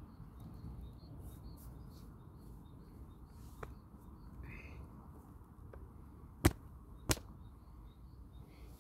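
Faint bird chirps over a low outdoor rumble, broken by two sharp clicks about half a second apart a little past the middle, the loudest sounds here.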